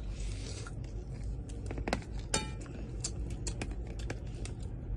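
Eating at a table: a run of small sharp clicks and clinks of utensils against dishes, over a steady low hum.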